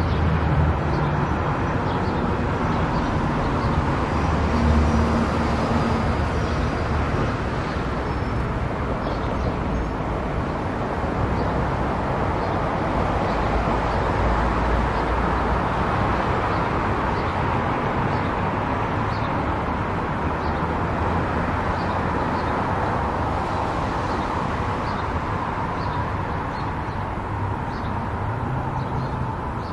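A car driving steadily at highway speed: a constant rush of tyre, wind and engine noise with a low rumble underneath.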